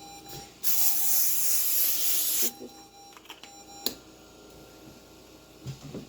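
Aerosol cooking spray hissing onto a baking pan in one spray of about two seconds, followed a little later by a single sharp click.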